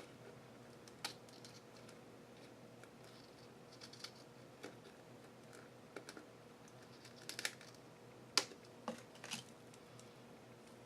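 Scissors snipping through ribbon, with light handling clicks: a scatter of faint, sharp snips and clicks, the loudest about eight seconds in.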